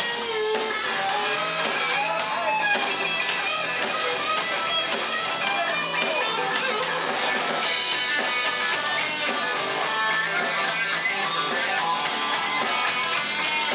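Live country-rock band playing an instrumental break: an electric guitar plays a lead line with bent notes over drums keeping a steady beat.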